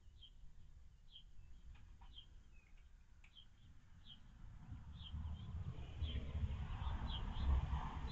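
A small bird calling with short high chirps, repeated about once a second. A low rumble builds through the second half and becomes the loudest sound near the end.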